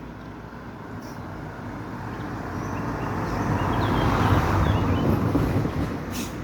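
A vehicle passing by on a road, its noise swelling as it approaches, loudest about four to five seconds in, then fading away.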